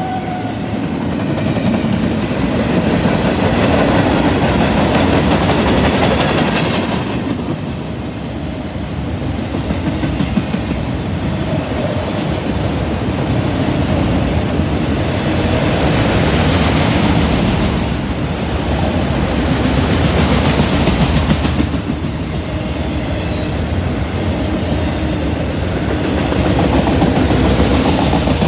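Freight cars of a mixed freight train, flatcars and autoracks, rolling past close by: a steady rumble and rattle of steel wheels on the rails that swells and eases every few seconds as the cars go by.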